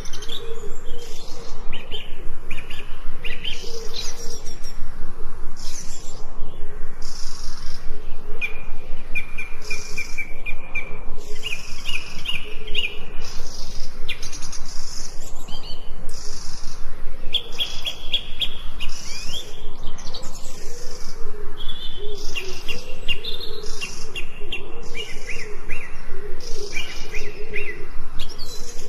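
Forest birds singing: many short, repeated chirps and quick trills from several birds, over a lower wavering call that runs underneath throughout.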